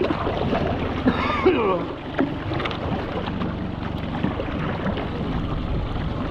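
Wind on the microphone and sea water washing around a kayak, a steady rushing noise. A faint voice calls out briefly about a second in.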